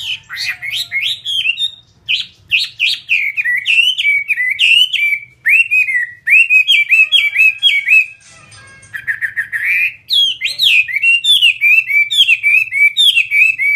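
Chinese hwamei singing loudly in fast runs of repeated, sweeping whistled notes, grouped into phrases with brief pauses.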